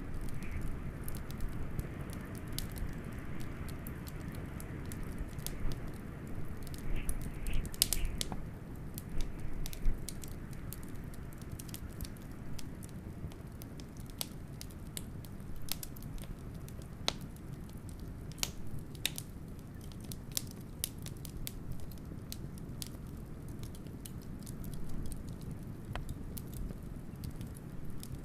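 Wood fire crackling, with frequent sharp pops and snaps, the loudest in the first ten seconds or so, over a steady low rush of blizzard wind.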